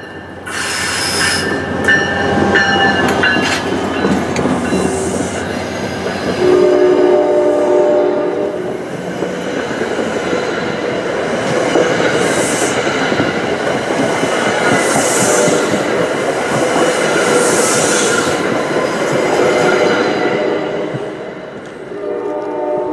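New Jersey Transit commuter train passing at speed, its wheels rolling over the rails, loudest as the coaches go by. The train horn sounds one chord lasting two to three seconds, about seven seconds in.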